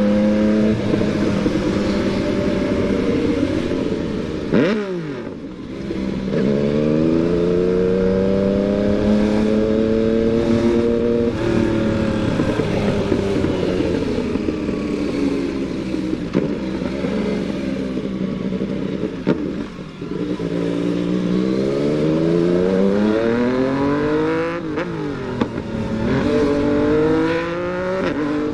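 Yamaha MT-09 motorcycle's inline three-cylinder engine accelerating and easing off over and over: the pitch climbs and holds, falls sharply about five seconds in and again near twenty seconds, then climbs again, with quick drops and rises near the end.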